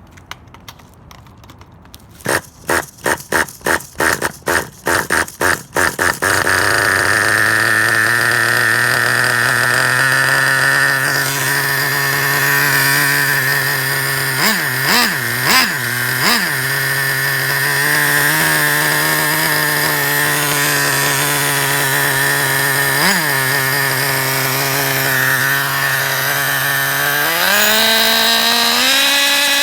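Traxxas Revo 3.3's small nitro engine being cranked in a rapid series of short bursts, catching about six seconds in and settling into a steady idle. A few quick throttle blips come midway, and near the end the revs climb steadily. The engine is running again after repair.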